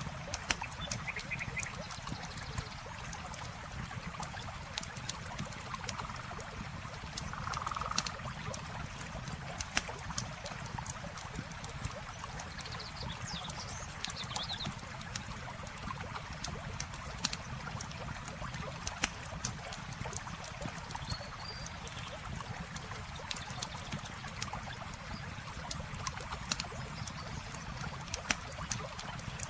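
Wood campfire crackling with frequent sharp little pops, over a steady wash of running water.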